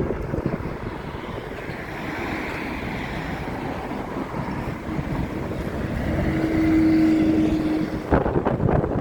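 A vehicle running close by, with wind buffeting the microphone. A steady hum comes in about six seconds in, is the loudest sound, and cuts off suddenly near the end, followed by gusty knocks of wind.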